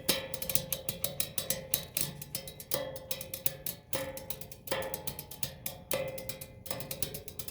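Improvised hand percussion: a dense stream of quick light taps, with stronger strikes about once a second that ring briefly at one pitch.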